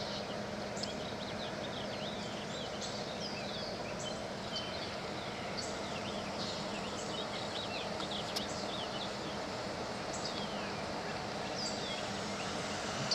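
Birds chirping and calling in many short, quick notes over a steady background of outdoor noise with a low hum.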